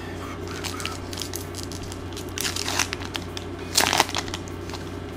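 Baseball card pack wrapper being torn open and crinkled in a few short rustles, the loudest near the end, over a low steady hum.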